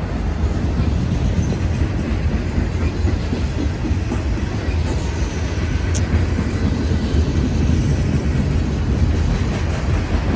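Norfolk Southern freight train rolling past, a steady heavy rumble of wheels on the rails, with a short high squeak about six seconds in.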